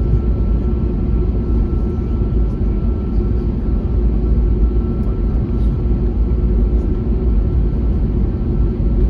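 Airbus A321neo's Pratt & Whitney PW1100G geared turbofan engines running steadily: a loud, even low rumble with a steady high tone over it.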